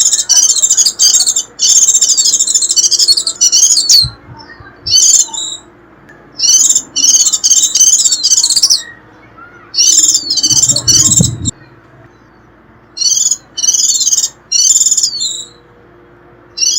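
White-eye (vành khuyên) giving its shrill twittering call in rapid high bursts of about a second each, broken by short pauses. A brief low rumble comes about two-thirds of the way in.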